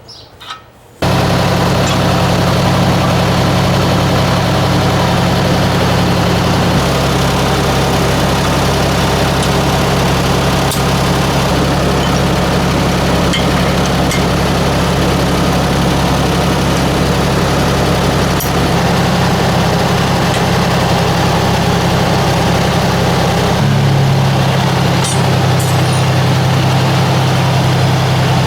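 1969 Ford 4000 tractor's three-cylinder engine running steadily, coming in abruptly about a second in; its note shifts slightly about 23 seconds in.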